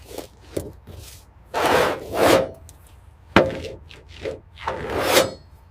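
A few long scraping or rubbing strokes, with a sharp knock between them, as of parts being handled and worked by hand.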